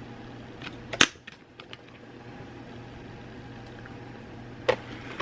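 Handling noise from unboxing: a sharp tap about a second in, a few lighter clicks around it and another near the end, over a steady low hum.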